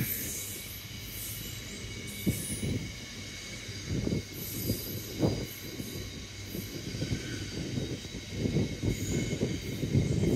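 Container wagons of a Class 66-hauled freight train rolling past: a steady rumble of wheels on rail with irregular thuds and intermittent high-pitched wheel squeal, growing louder near the end.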